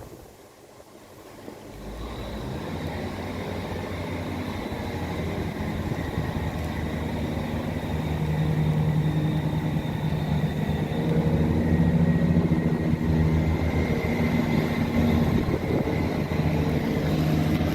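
A train approaching, its running noise growing steadily louder from about two seconds in, then holding with a steady low hum and a faint high whine.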